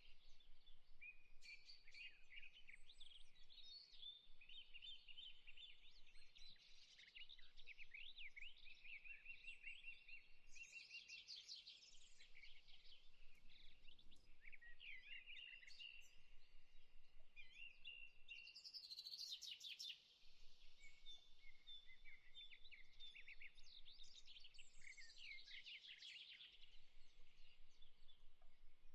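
Faint birdsong: several small birds chirping and trilling over one another without a break.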